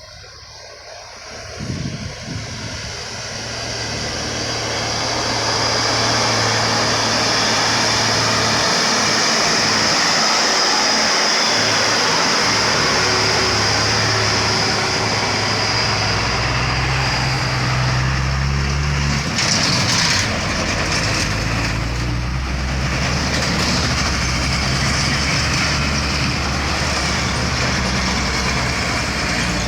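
Heavy multi-axle trucks' diesel engines labouring slowly uphill. The sound builds over the first few seconds as they come close, then holds steady, with a short hiss about two-thirds of the way through.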